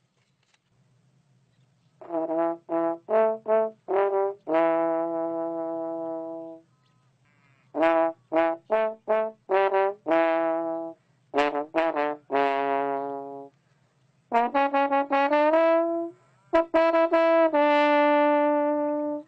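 Music: a brass melody played in phrases of quick short notes, each phrase ending on a long held note, with short pauses between phrases.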